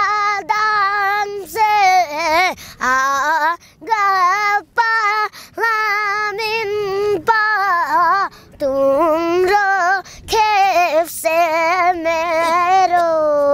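A boy singing a song in the Limbu language, unaccompanied, with wavering vibrato on long held notes and short breaks between phrases.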